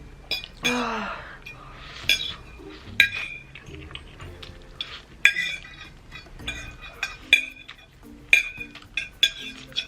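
An eating utensil clinking and scraping against a bowl at irregular intervals as noodles are eaten, about a dozen sharp clinks with a short ring. A short breathy vocal sound about a second in.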